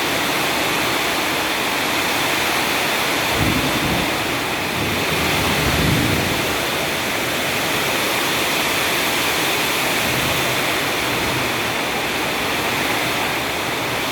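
Heavy rain pouring steadily, with two brief low rumbles about three and a half and six seconds in.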